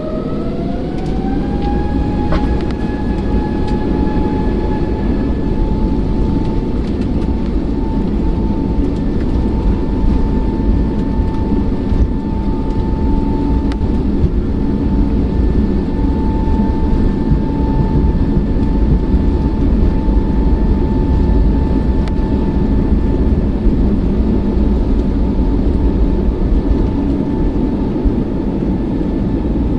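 Jet airliner engines spooling up to takeoff thrust: a whine rises over the first two seconds and then holds steady over a heavy, continuous rumble.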